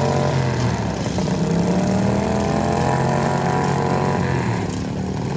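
Tractor engine running steadily, its note sagging about half a second in, climbing back, then dipping again near the end.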